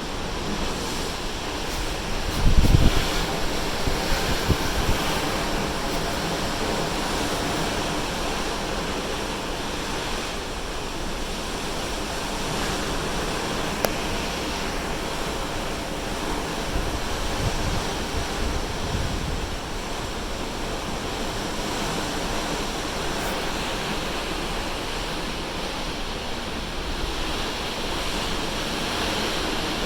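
Steady rush of ocean waves and sea spray alongside a cruise ship under way, with wind buffeting the microphone in low gusts a couple of seconds in and again about halfway through.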